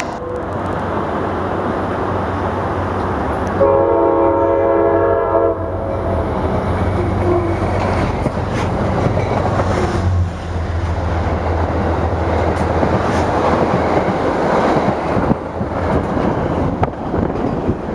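Metro-North Hudson Line commuter train sounding its chord horn for about two seconds, a few seconds in. The train then passes close by, its wheels rumbling and clicking along the rails.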